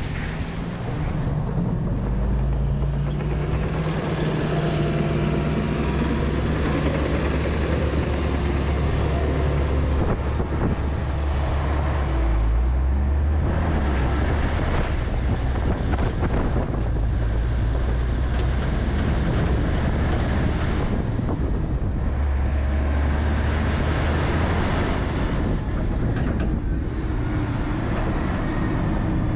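Volvo A25G articulated haul truck's diesel engine running steadily while the truck is under way, its engine note shifting a few times.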